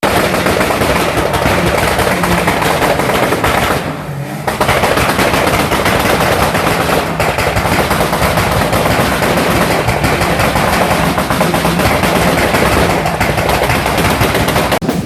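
Modified car engine held on a two-step launch limiter, its exhaust popping and banging in a rapid, continuous stream of backfires, very loud, with a short let-up about four seconds in.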